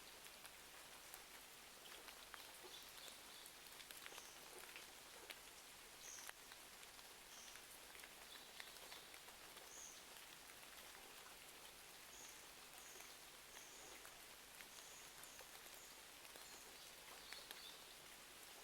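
Faint steady rain hiss mixed with the scattered sharp crackles of a wood fire, with a series of short high chirps throughout.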